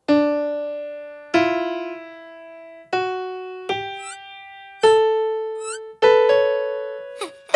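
Piano played one note at a time: a slow, halting, rising scale of about seven notes with uneven gaps, each note ringing and dying away. It is a beginner's attempt at the C scale.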